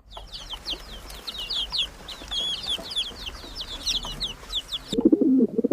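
A brood of chicks peeping, many short, high, downward-sliding cheeps overlapping in quick succession. Near the end it cuts suddenly to a much lower, pulsing bird call.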